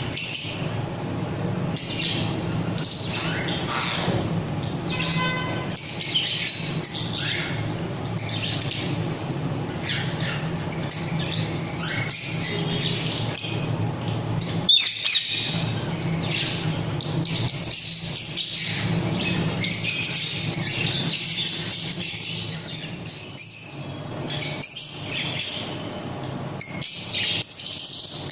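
Mixed aviary of pet parrots (budgies, lovebirds, cockatiels and ringnecks) chirping and chattering continuously, with a louder sharp call about halfway through. A steady low hum runs underneath.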